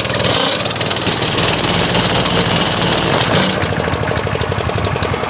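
Honda GX160 single-cylinder engine on a concrete tamper running loudly at speed, with a rapid steady clatter. It runs because the faulty oil-level sensor has been bypassed by unplugging its wire.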